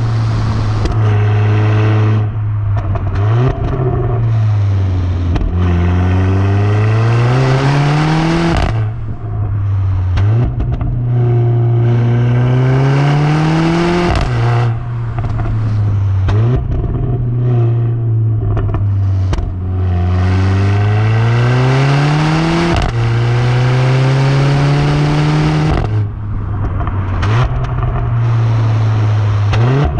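Mercedes A45 AMG's turbocharged 2.0-litre four-cylinder through an AMG performance exhaust, pulling hard. The engine note rises in pitch over a few seconds and then drops sharply, several times over, like upshifts while accelerating, with steadier cruising stretches in between.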